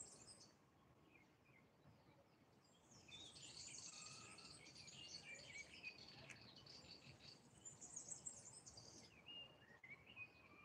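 Faint birdsong: several small birds chirping and trilling in high, quick notes, busiest from about three seconds in until near the end.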